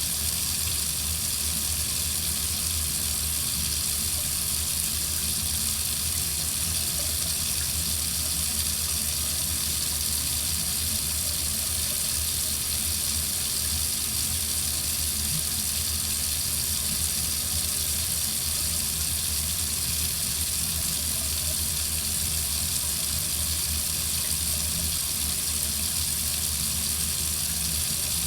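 Water running steadily from a faucet into a sink, an even unbroken splashing hiss.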